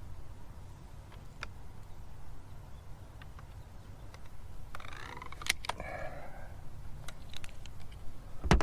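Handling noise over a steady low rumble: scattered light clicks and a short stretch of rustling, then one heavy thump near the end.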